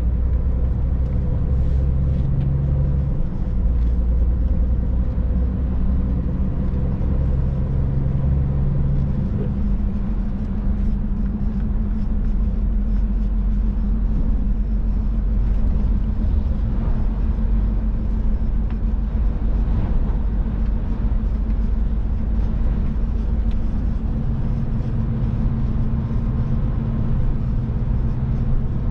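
Scania Next Generation truck driving at a steady speed, heard from inside the cab: a low, steady engine drone over road and tyre noise, its engine note shifting a few times.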